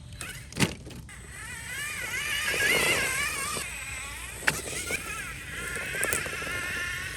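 RC rock racer's brushless motor and geared drivetrain whining, the pitch wavering up and down with the throttle as it crawls over rock. Sharp knocks come about half a second in and again about four and a half seconds in.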